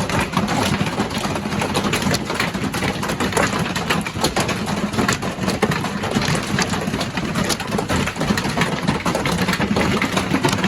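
Hail drumming on a caravan roof: a dense, continuous clatter of countless small hits, really loud.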